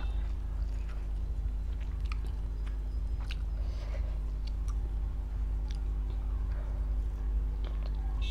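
Close-miked chewing of flatbread dipped in butter chicken gravy, with scattered short wet mouth clicks. A steady low hum runs underneath.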